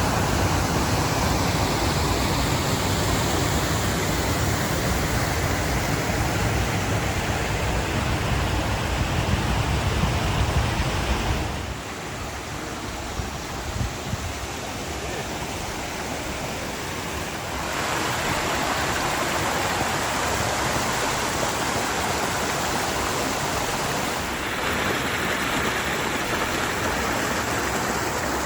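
Steady rushing of a rocky mountain creek and its cascades. A strong low rumble underneath drops away abruptly about twelve seconds in, and the sound of the water shifts again suddenly at about eighteen and twenty-four seconds.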